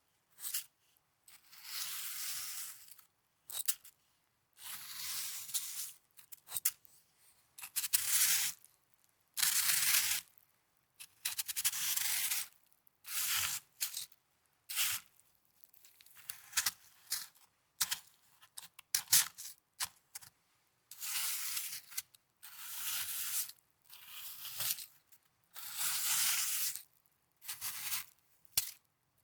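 Snow being handled close to the microphone, a series of about a dozen short scratchy rushes, each about a second long, with brief silences and a few small clicks between them.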